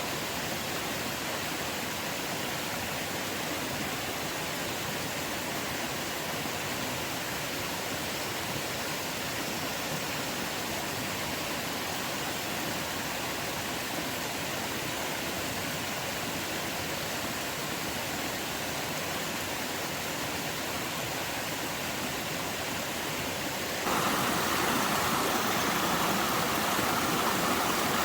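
Steady rushing of water, which jumps suddenly louder and brighter about four seconds before the end.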